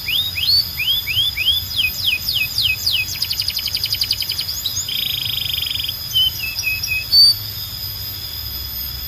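Canary singing: a run of rising chirps, then falling whistled sweeps and a fast trill, a short buzzy rattle about five seconds in, and a few short notes before the song stops near the end. A steady thin high tone runs underneath.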